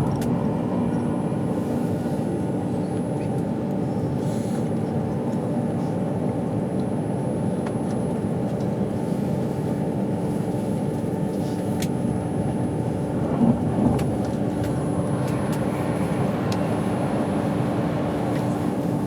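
Interior noise of an Avanti West Coast passenger train running at speed: a steady low rumble with a constant hum. Two small knocks come about two-thirds of the way through.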